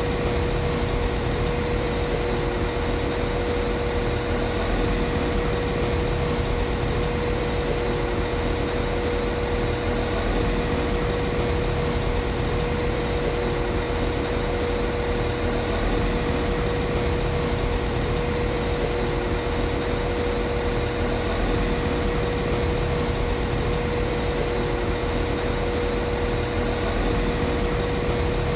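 Class 195 CAF Civity diesel multiple unit's underfloor diesel engine idling steadily: an even low rumble with a constant high hum.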